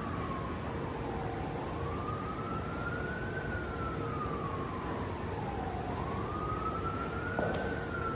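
Emergency vehicle siren wailing, its pitch slowly rising and falling in long sweeps about four seconds apart, over steady background noise.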